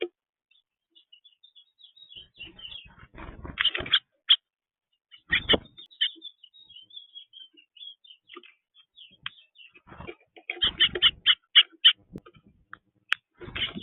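Small birds chirping in quick, scattered high notes throughout. Several louder bursts of rustling or fluttering noise come around three and a half seconds in, at about five seconds, around ten to eleven seconds and near the end.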